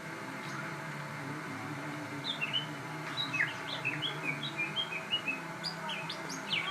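Crossbred murai songbird in full song: from about two seconds in, a rapid string of short whistled notes, some sweeping sharply upward near the end, over a steady low hum.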